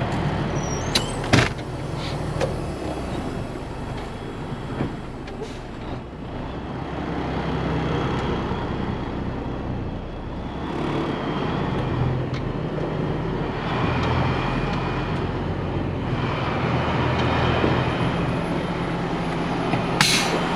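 Heavy diesel engine running, its low hum swelling and easing a few times, with a sharp click or knock about a second in and another near the end.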